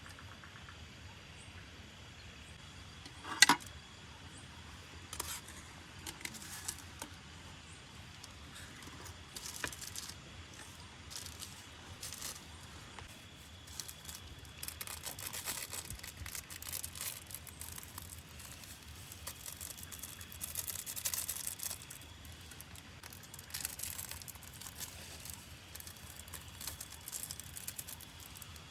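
Scattered small handling sounds, clinks and crinkling rustles, with one sharp knock about three and a half seconds in, over a faint steady background hiss.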